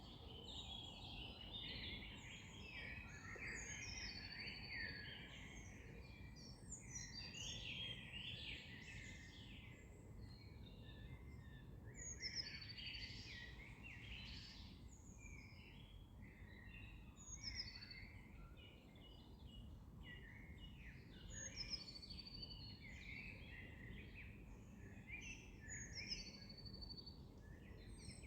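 Several wild songbirds singing and chirping at once over a faint steady low background hiss, with a rapid high trill recurring a few times.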